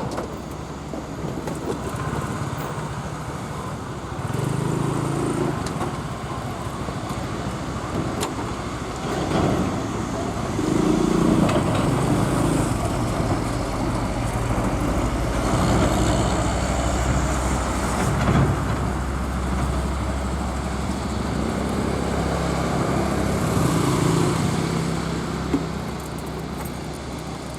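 Road traffic: motor vehicles passing one after another, their engines swelling and fading over a steady low rumble.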